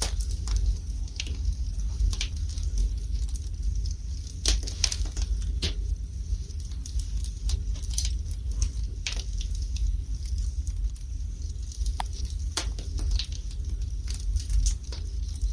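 Fire burning in a fireplace, crackling with a dozen or so sharp, irregular pops over a low steady rumble.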